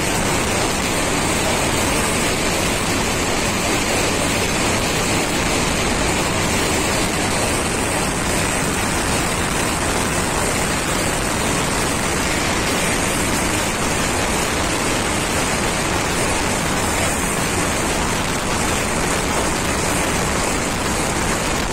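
Steady rushing noise of an express train running at speed, heard from its open door, with wind blowing across the microphone.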